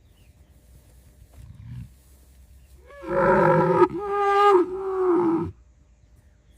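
An animal's long drawn-out call, about two and a half seconds, pitched and full of overtones, in three linked parts, starting about three seconds in.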